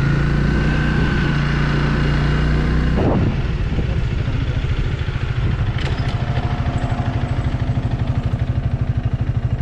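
Honda Rebel 300's single-cylinder engine running steadily under way, then dropping off suddenly about three seconds in and settling into a low, evenly pulsing idle as the motorcycle slows.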